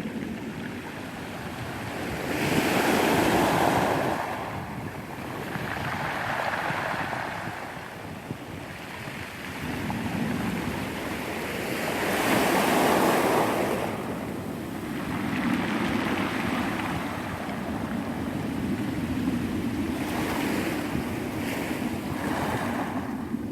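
Sea waves washing onto the shore: a rushing noise that swells and ebbs every few seconds, two surges a good deal louder than the rest.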